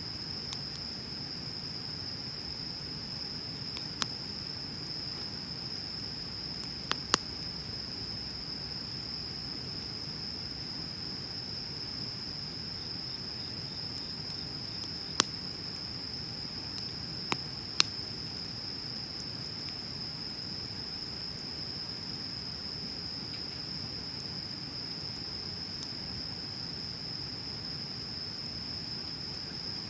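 Wood bonfire burning with a soft low rush, punctuated by about six sharp crackling pops: one about four seconds in, a pair near seven seconds, and more around fifteen and eighteen seconds. A steady high-pitched chirring tone runs underneath.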